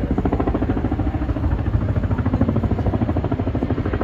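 Boeing CH-47 Chinook tandem-rotor helicopter flying, with the rapid, even beat of its rotor blades over a steady engine noise.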